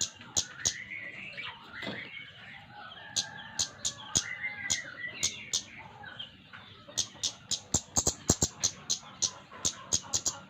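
Flowerpecker (cabe-cabean) calling in full voice: runs of sharp, very high ticks, about three a second, with a twittering warble between them in the first half. The ticks come thicker in the last few seconds.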